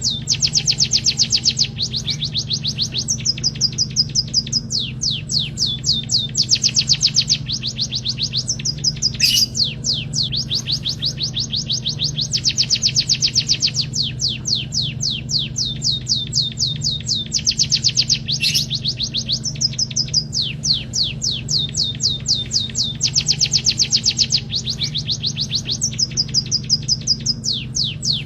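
Emprit kaji (white-headed munia) singing: phrases of rapid, high-pitched trilled notes, each lasting a second or two, with short breaks between them. A steady low hum runs underneath.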